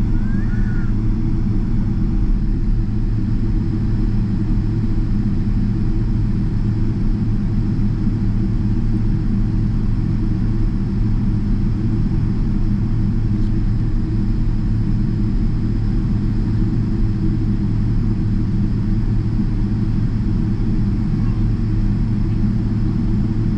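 Steady low rumble heard inside the cabin of a Boeing 777-300ER taxiing on the ground, its engines near idle and the airframe rolling along the taxiway.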